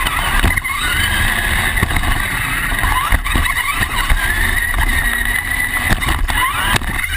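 Radio-controlled monster truck running, its motor giving a steady high whine that rises in pitch several times as it speeds up. Under it are a rough low rumble and scattered knocks as it drives over the ground.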